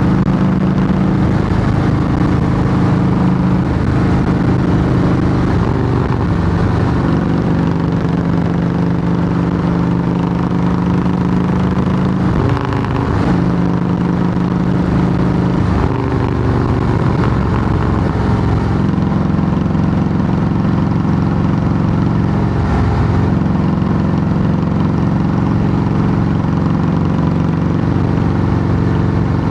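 2008 Harley-Davidson Heritage Softail Classic's Twin Cam 96 V-twin running loud through Samson fishtail true dual exhaust pipes, the engine note dipping and changing pitch a few times.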